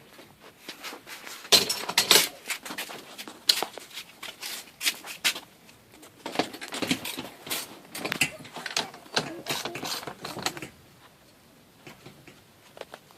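Irregular clinks, rattles and knocks of screws and metal garage door hardware being handled and sorted, stopping about ten seconds in.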